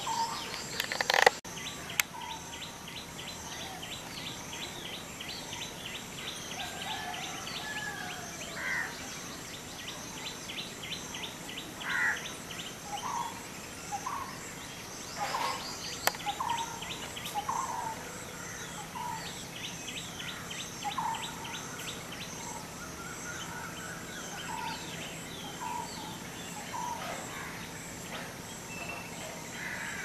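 Small birds calling: scattered short chirps and three bursts of rapid high trills over a steady outdoor hiss. A sharp knock sounds about a second in.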